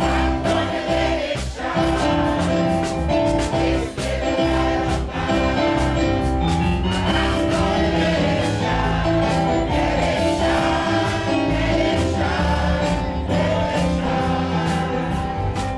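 A choir singing gospel music with a band accompanying it, over a steady beat.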